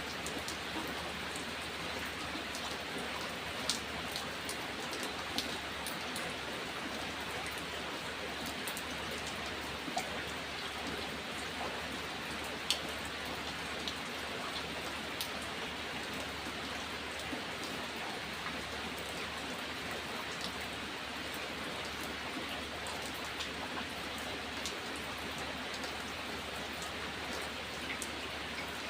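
Steady rain falling, an even hiss with scattered individual drop ticks striking a surface, a few louder ones standing out.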